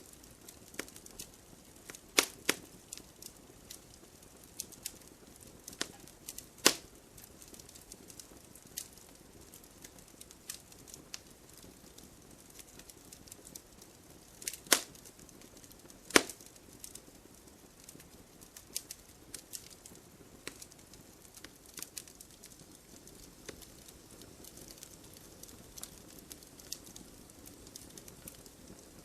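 Firewood burning: irregular crackling with sharp pops over a soft low hiss of flame, a few pops standing out louder.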